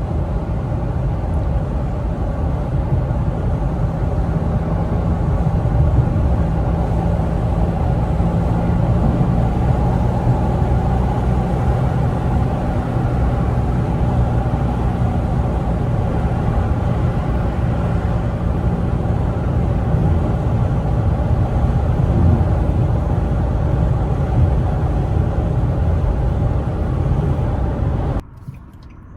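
Infiniti G37's V6 engine and road noise while driving: a steady low rumble that falls away sharply near the end.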